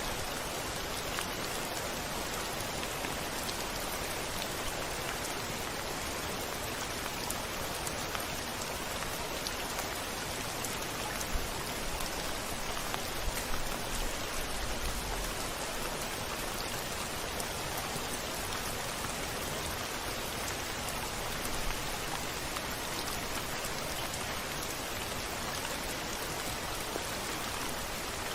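Steady rain pattering on a window, with a short low rumble of distant thunder about halfway through.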